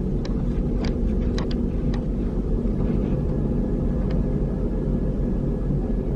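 Greater Anglia diesel multiple unit's underfloor diesel engine running steadily, a low even drone, with a handful of sharp clicks and rattles in the first couple of seconds and one more about four seconds in.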